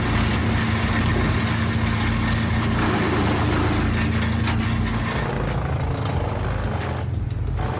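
Engine of a wood-chipping machine running steadily, a constant low hum under a rushing noise, with a few light ticks; the rushing noise drops away briefly near the end.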